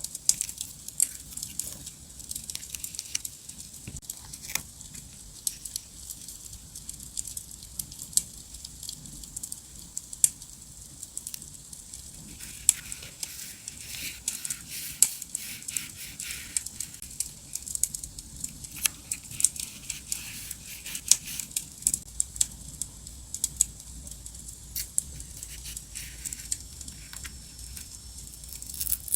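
Crackling campfire: a steady hiss with many quick, sharp pops and snaps, thicker in two stretches near the middle.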